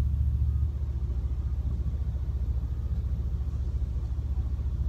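A car's engine idling, heard from inside the cabin as a steady low rumble that eases slightly in loudness under a second in.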